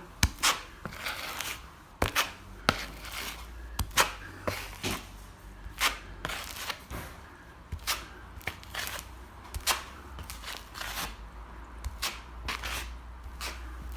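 A plastering knife scraping wet plaster level over a ceiling crack in repeated strokes, with sharp clicks and taps of the blade throughout.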